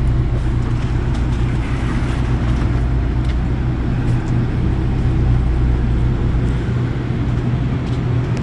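Steady low vehicle rumble with a few faint ticks; the deepest part of the hum drops away about six and a half seconds in.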